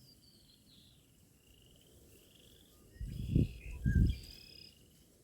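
Spring marsh chorus of short, buzzy trills repeating every second or so, with a few higher bird calls about three seconds in. Two brief low thuds on the microphone, about three and four seconds in, are the loudest sounds.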